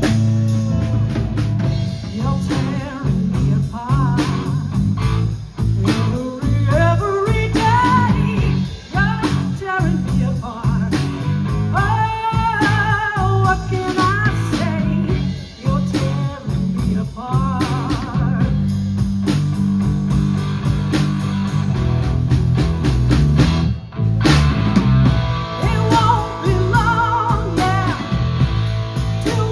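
Live band playing a blues-rock number: bass and drum kit under a wavering, bending lead melody, strongest in the middle.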